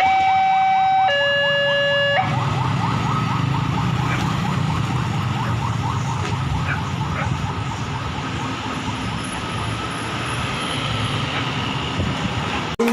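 A railway level-crossing warning alarm sounding two alternating tones, high then low, about a second each, which stops about two seconds in. A steady low rumble follows.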